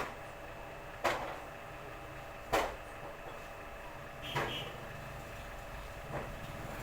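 Tools and parts being handled on a workbench: about five sharp clicks and knocks a second or two apart, a couple ringing briefly, over a steady low hum.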